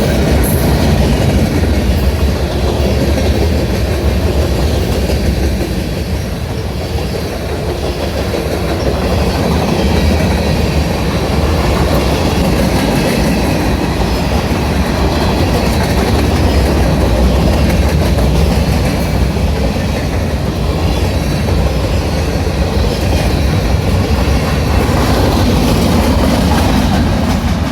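CSX manifest freight train's cars rolling past at steady speed: a continuous low rumble with wheels clicking over the rail joints.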